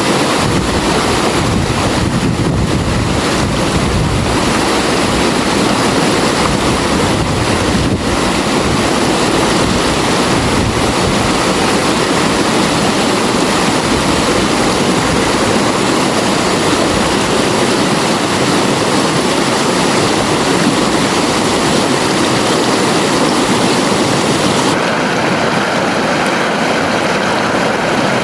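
River water flowing steadily, a continuous rushing noise; the sound thins slightly in the highs near the end.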